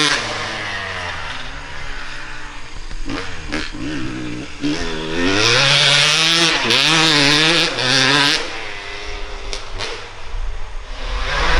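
Dirt bike engine revving hard as it is ridden, its pitch climbing and dropping several times with the throttle and gear changes. It is loudest around the middle and swells again near the end.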